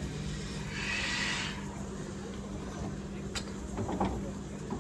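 Short hiss of escaping steam from a steam locomotive about a second in, over a steady low hum, with a few sharp clicks later.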